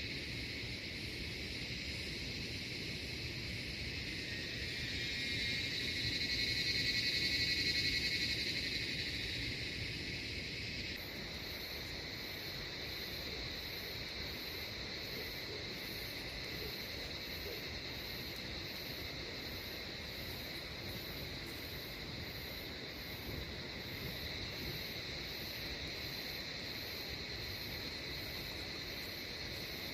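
Chorus of crickets and other insects with frogs: a steady high trilling that swells for a few seconds. About eleven seconds in the sound changes abruptly, and a very high pulsing chirp, a little more than once a second, joins the trilling.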